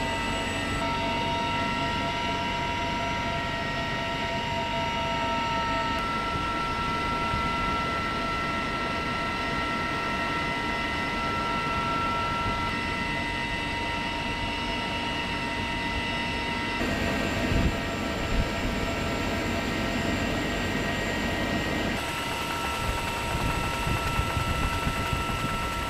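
CH-53E Super Stallion heavy-lift helicopter running: the steady tones of its three turboshaft engines and gearbox over continuous rotor noise, with abrupt changes where shots are spliced together and a few short loud peaks in the second half.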